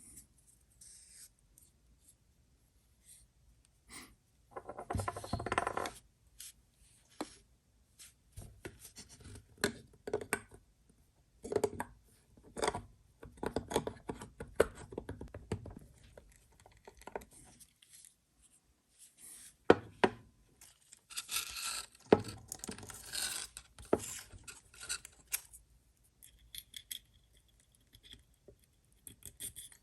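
Irregular clicks, taps and scraping of small hard parts being handled and worked by hand. There are longer scraping stretches about five seconds in and again past twenty seconds. These are the sounds of a pop-up headlight motor being taken apart and rebuilt.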